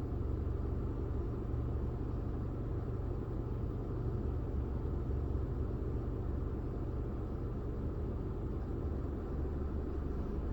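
Steady low rumble of a car driving along: engine and tyre noise with no change in pace.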